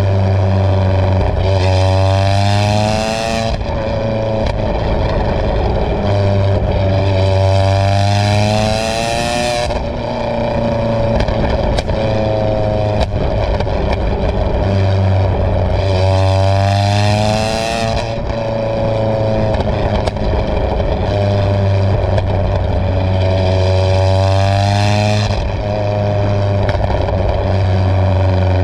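Golf mk2 GTI's supercharged 2-litre 8-valve engine (G60 supercharger) heard at the tailpipe through a homemade 55 mm exhaust with its valve open, running as a full straight pipe. The engine idles and is revved up four times, about once every seven to eight seconds, each rev rising in pitch, holding briefly and falling back to idle.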